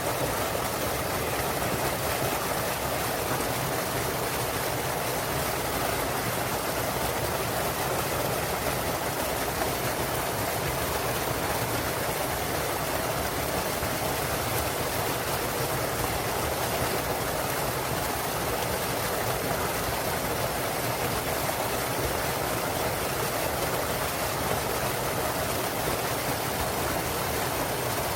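Small waterfall pouring into a mountain stream: a steady, even rush of falling water.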